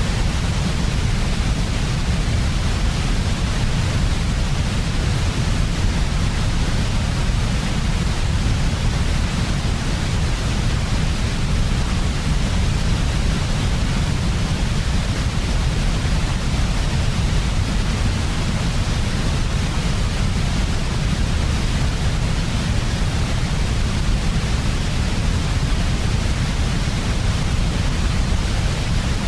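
Steady, unchanging sleep-sound noise made for soothing babies, heaviest in a deep low rumble with a softer hiss above it.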